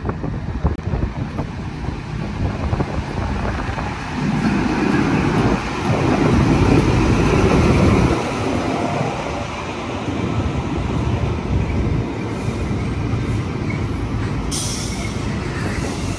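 A train running through a station, its heavy rumble loudest about five to eight seconds in, then easing. A short burst of hiss comes near the end.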